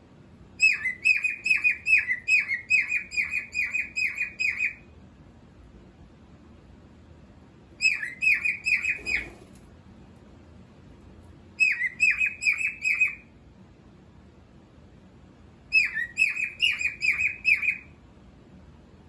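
Cockatiel chirping in four bursts of quick, repeated short falling notes, about three a second, each burst lasting one to four seconds.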